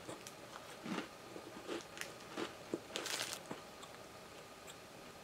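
A person chewing a small dry strawberry-jelly cookie: faint, irregular soft crunches and mouth sounds that stop about three and a half seconds in.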